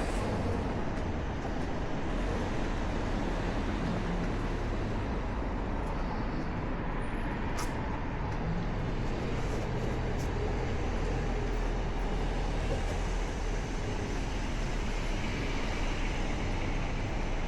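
Harley-Davidson Nightster V-twin, fitted with a Jekill & Hyde adjustable exhaust, running steadily while riding, mixed with road and wind noise; the level holds even, with no rev swings.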